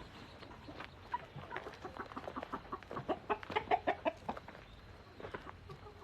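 A flock of chickens clucking, with a quick run of short clucks and squawks about halfway through, over a faint patter of rain.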